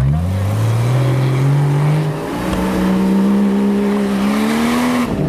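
Off-road 4x4's engine revving hard under load. The revs climb from the start, jump higher about two seconds in and hold there, then drop sharply near the end.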